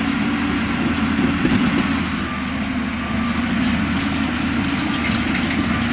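Bulldozer's heavy diesel engine running steadily, with a continuous rattling clatter.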